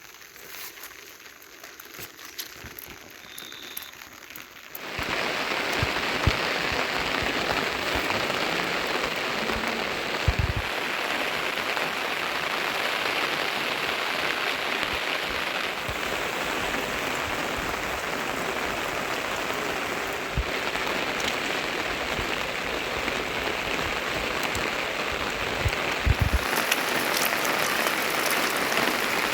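Heavy monsoon rain falling steadily, setting in about five seconds in after a quieter stretch. A few low thuds can be heard within the rain.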